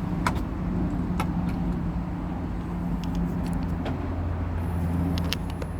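A car engine idling steadily, with a few light clicks over it.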